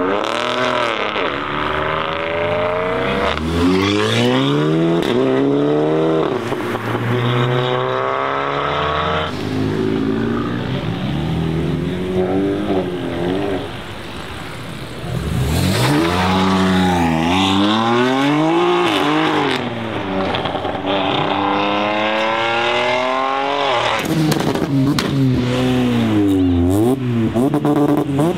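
Modified performance cars accelerating hard one after another, their engines revving up through the gears with the pitch climbing and then dropping at each shift. There is a brief lull about fourteen seconds in.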